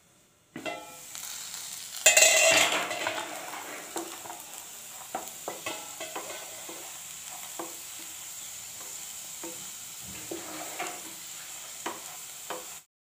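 Potatoes and peas frying in a non-stick wok: a steady sizzle that flares loudly about two seconds in as the lid comes off, then carries on under frequent scrapes and taps of a spatula stirring the fry. It cuts off suddenly near the end.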